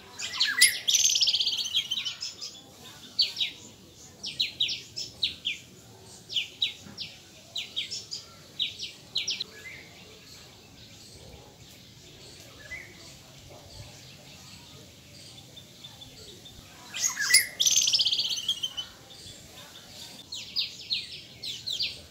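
Small birds chirping: repeated short, high chirps, with two louder bursts of rapid twittering, one about half a second in and one about seventeen seconds in.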